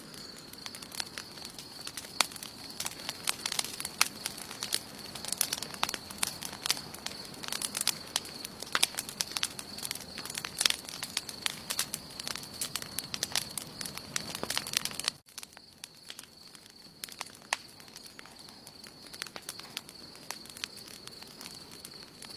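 Wood campfire burning, crackling with many sharp pops and snaps. About fifteen seconds in the sound cuts out for an instant and comes back with fewer, softer crackles, over a steady high-pitched hiss.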